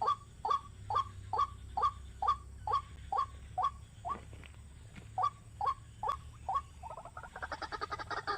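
A bird calling over and over, about two short calls a second with a brief pause midway. About seven seconds in it breaks into a fast chattering run of notes.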